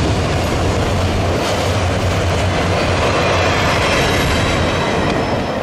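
A train's cars rolling past on the rails, loud and steady throughout.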